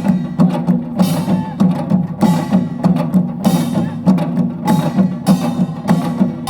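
Utdari samulnori ensemble playing: kkwaenggwari small gong, jing, janggu and buk drums sounding together in a fast, steady rhythm of gong and drum strokes.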